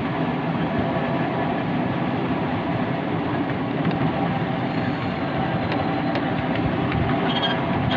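Miniature railway train running, heard from a carriage while riding: a steady noise of wheels on the track with a few faint clicks.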